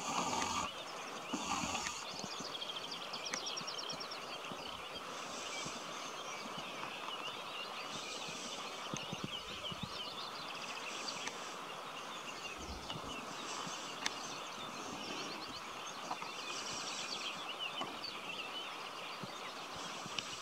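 Wild birds singing over a steady outdoor background hiss: one bird repeats a short, high song phrase every few seconds, with other chirps and trills between.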